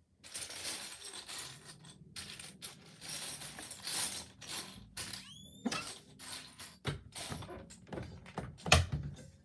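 Loose plastic Lego pieces rattling and clicking as they are sifted through by hand, with one sharp click near the end. A short rising squeak comes about halfway through.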